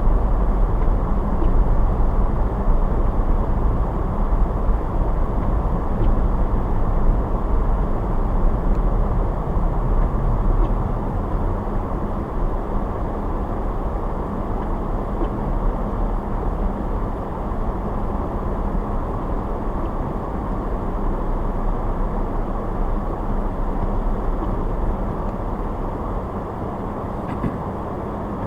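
A car driving, with steady road and engine noise; the low rumble eases off and the noise gets somewhat quieter after about twelve seconds.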